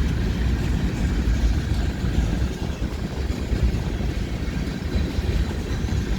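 CN freight train rolling past, a steady low rumble of wheels on rails.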